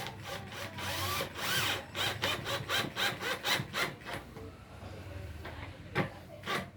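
Wood being worked by hand with quick back-and-forth strokes, about three a second, followed by two sharp knocks near the end.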